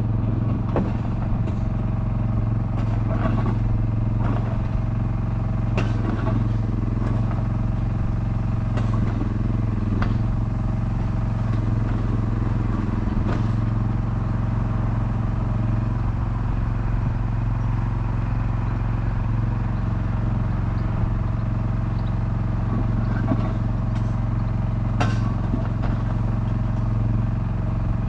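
An engine running steadily at an unchanging idle, a low, even hum, with a few sharp clicks scattered through it.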